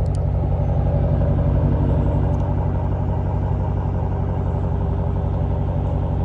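Dodge Challenger's engine idling with a steady, low-pitched exhaust rumble.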